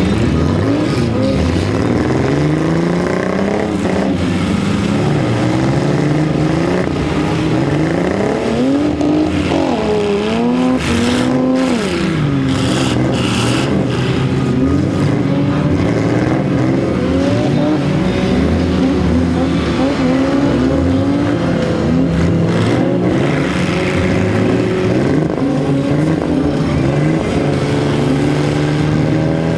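Several demolition derby car engines revving at once, their pitches repeatedly rising and falling over one another.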